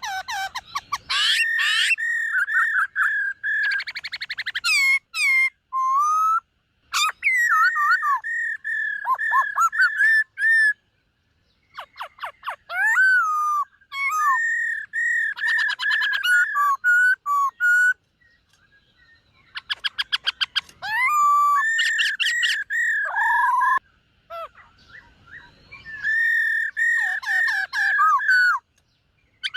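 Black-throated laughingthrush singing loud whistled phrases: fast runs of repeated notes, trills and clear sliding whistles, in bursts of a few seconds with short pauses between.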